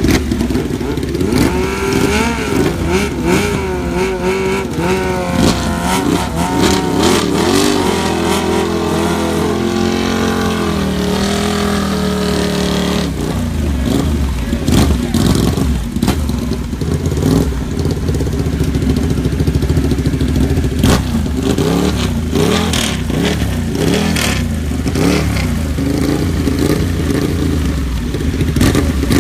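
Several superbike engines revving at once, their pitches rising and falling over one another, with many short sharp cracks.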